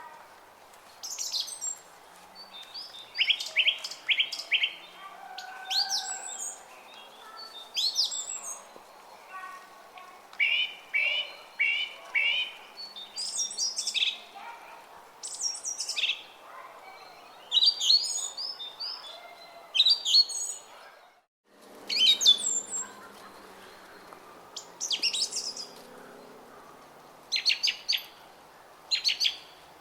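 Small songbirds chirping and singing in short, repeated phrases every second or two, over a faint, steady murmur of a brook. All sound cuts out for a moment a little past the middle.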